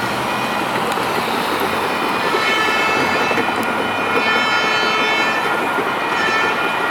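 Light rail train running past with steady rumbling rail noise. About two seconds in, a high-pitched whine made of several steady tones sets in and holds.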